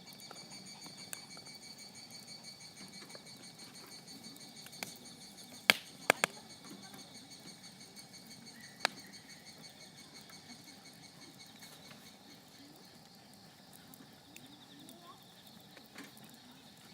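Wood fire crackling, with a few sharp pops: a loud cluster about six seconds in and another pop near nine seconds. Under it runs a steady high trill of autumn crickets, which thins out for a while in the latter half.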